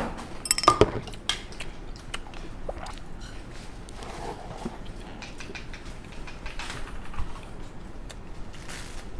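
Scattered clicks and clinks of utensils against dishes, with a brief cluster of louder clinks about half a second in.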